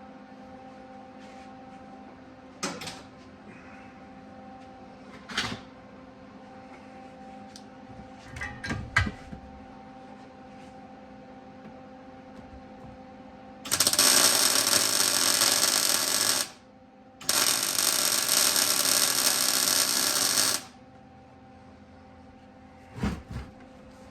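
Electric arc welding on a steel springer fork leg: two loud, even crackling runs of about three seconds each, a little after the middle, with a short break between. A few short knocks of metal being handled come before and after, over a steady low hum.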